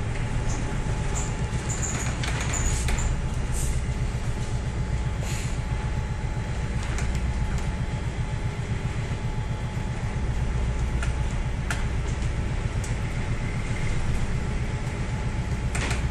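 Steady low drone of a ship's engines and machinery heard on board, with a few light clicks and knocks over it.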